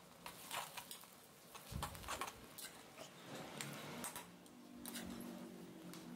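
Faint crackling and ticking of chopped onions frying in hot mustard oil in a karahi, with the light scrape and clink of a metal spoon stirring them.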